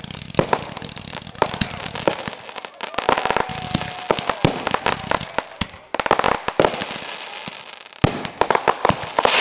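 Fireworks finale: a rapid, irregular string of sharp bangs from shells bursting, with dense crackling between them. About three seconds in, a steady whistle holds for about a second.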